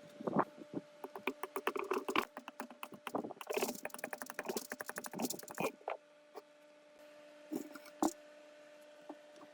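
Workshop hand-tool work on metal parts: a string of sharp clicks and knocks, with a fast run of clicks from about three to six seconds in, over a steady faint hum.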